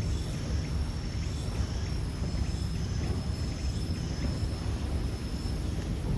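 Outdoor ambience: a steady low rumble, like wind on the microphone, with insects giving a thin steady high trill and a faint higher chirp pulsing about twice a second.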